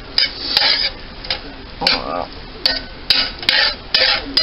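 A utensil scraping and knocking against a cast iron skillet as seasoned ground beef is stirred, in a series of short scrapes and sharp clicks at an uneven pace.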